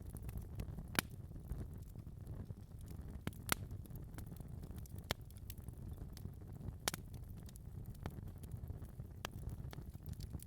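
Fire crackling in a fireplace: a steady low rumble of flames with scattered sharp pops and snaps, the loudest about a second in, about three and a half seconds in and about seven seconds in.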